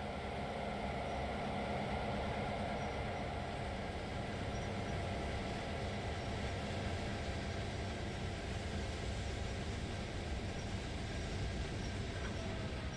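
A dubbed-in railroad sound effect of a train rolling past: a steady rumble with a constant engine hum.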